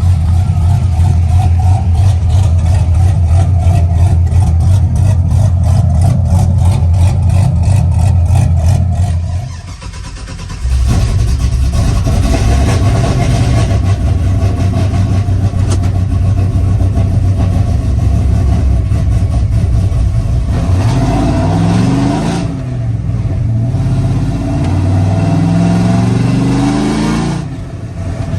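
Modified truck engine with a Stage 4 cam, header and cold-air intake, running loud with a deep rumble. Near the end it accelerates hard twice, the pitch climbing each time.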